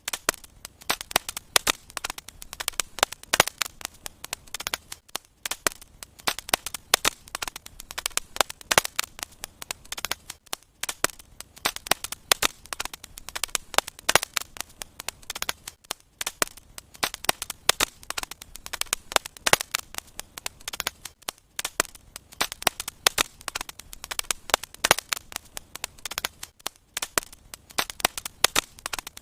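Fireplace fire crackling: a dense, irregular stream of sharp pops and snaps over a soft hiss.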